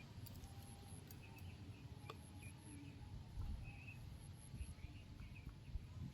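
Faint outdoor ambience: scattered short bird chirps and a steady high insect drone over a low, uneven rumble, with a single click about two seconds in.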